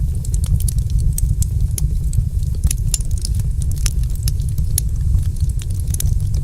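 Wood fire in a fireplace, crackling with many sharp, irregular pops and snaps over a steady low rumble.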